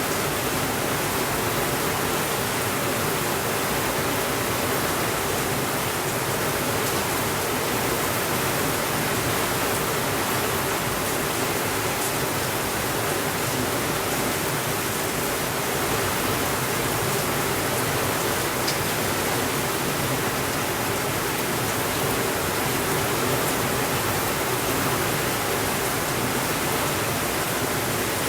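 Steady rainfall, an even unbroken hiss, with a couple of faint isolated clicks.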